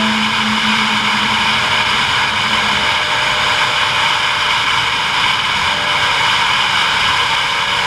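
Steady rushing wind noise on the microphone from riding at speed, with a faint low hum underneath.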